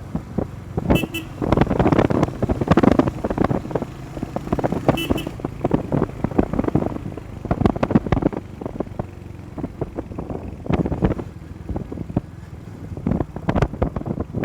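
Motorcycle on the move: a low engine rumble under heavy, gusty wind buffeting on the microphone. Two short high-pitched double beeps come through, about a second in and again about five seconds in.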